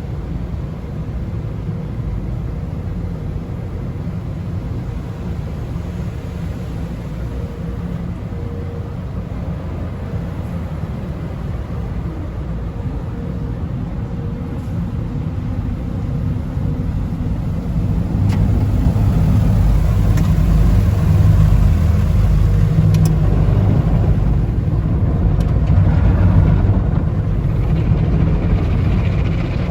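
Automatic tunnel car wash equipment heard from inside the car's cabin: a steady low rumble of spraying and brushing machinery. It grows louder about two-thirds of the way through, with a few sharp clicks near the end.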